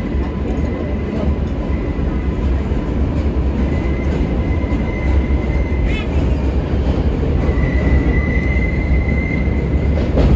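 R143 subway train running, a steady loud rumble of wheels on track. A thin high-pitched whine comes and goes, from about four seconds in and again near the end, with a single click around the middle.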